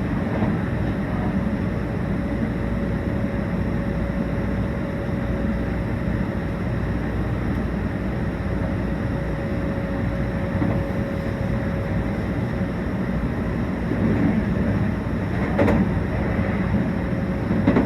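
Meitetsu 1800 series electric train running at speed, heard inside the car: a steady rumble of wheels on rail with a faint steady whine. There is one sharp knock near the end, and the sound grows a little louder in the last few seconds.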